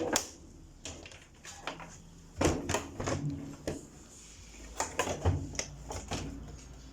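Scattered clicks and knocks of plastic parts being handled: wire connectors being unplugged by hand from a washing machine's control panel, with the panel lid bumping.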